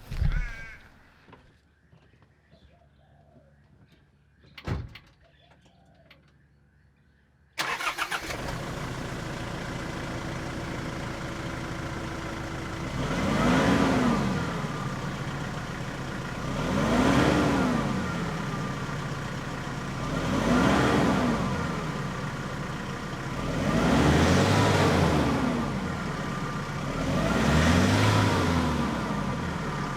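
A Nissan Navara D22's YD25 2.5-litre four-cylinder turbo-diesel starts up about a quarter of the way in and idles, then is revved and let fall back five times at an even pace. There is a single thump before it starts.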